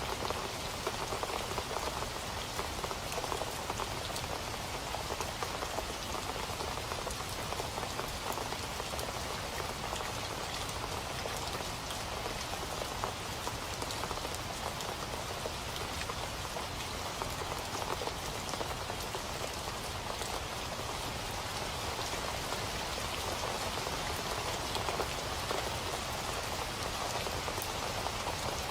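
Steady rain falling on a surface, a dense patter of individual drops with no pauses.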